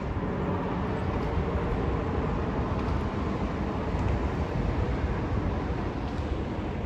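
Steady low rumble of vehicle engines, even and unbroken.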